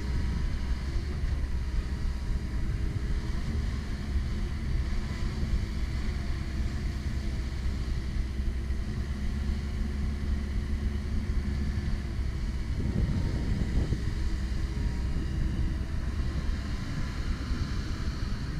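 Komatsu PC170LC-10 excavator's diesel engine running steadily, with a few steady higher tones over its low hum and a brief rough swell of noise about two-thirds of the way through.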